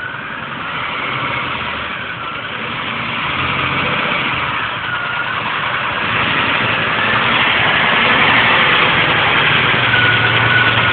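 Diesel engine of a Peterbilt semi-truck running, gradually getting louder.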